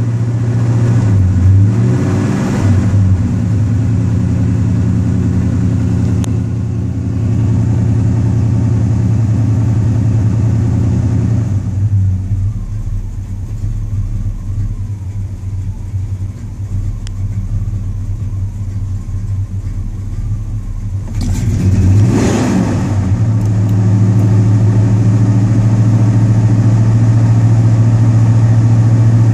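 Old Chevy's engine running with the accelerator pedal being worked. It runs steadily, turns quieter for several seconds in the middle, then picks up again with a short rev about three-quarters of the way in and holds louder.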